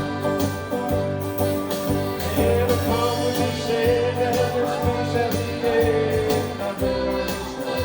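Live band music from a song performance, with a steady beat and a wavering held note through the middle.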